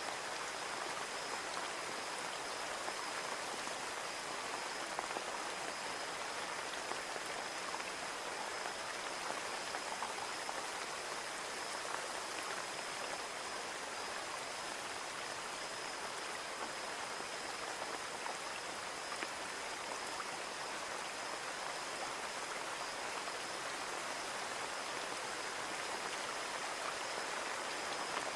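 Steady rain falling on a window, an even hiss with many small scattered drop taps.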